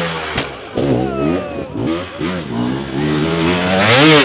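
Dirt bike engine revved in repeated throttle blips, its pitch rising and falling several times and climbing sharply near the end.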